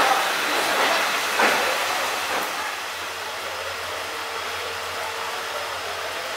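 Passenger train creeping through a station, heard from aboard: an even hiss over a steady low hum, louder and busier with a few short knocks in the first two seconds or so, then settling.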